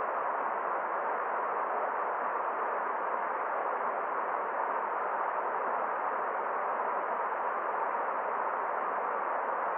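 Forest stream flowing: a steady, even rush of water with no single splashes standing out.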